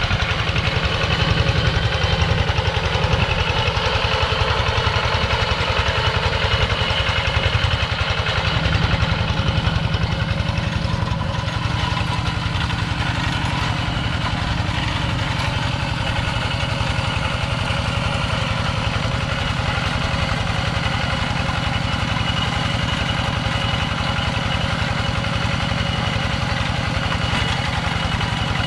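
Kubota two-wheel walk-behind tractor's small diesel engine running steadily with an even pulsing beat, a little louder for the first ten seconds or so before settling.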